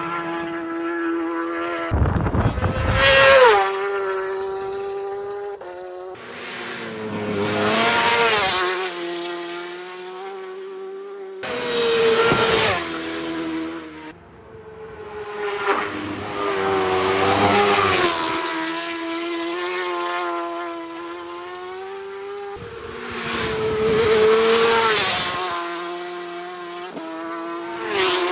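Superbike racing motorcycles passing at race speed one after another, about six times. Each engine note swells to a loud peak and bends down in pitch as the bike goes by.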